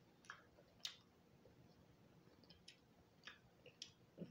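Faint close-up chewing of salt and pepper fried eel: about six short, sharp wet mouth clicks and smacks spread over a few seconds.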